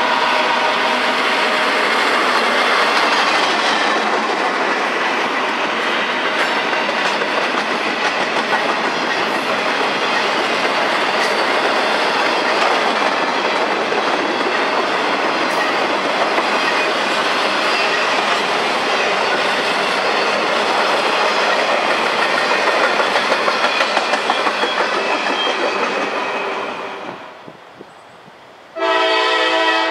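Freight train cars rolling past close by: a steady rumble and rattle of wheels on the rail, with a horn chord fading out at the start and a clickety-clack wheel rhythm near the end of the passing cars. After a sudden drop in level, a locomotive horn sounds loudly about 29 s in.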